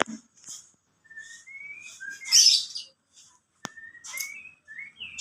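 Kolibri ninja (a sunbird) singing: a run of short high chirps and thin rising whistled notes, with a louder scratchy burst about two seconds in and one sharp click a little past halfway.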